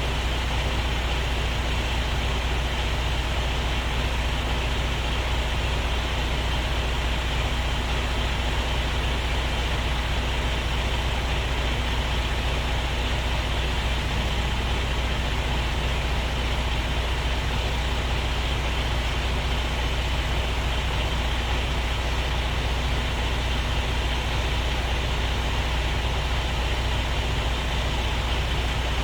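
Truck's diesel engine running steadily, a low, even drone that holds unchanged throughout.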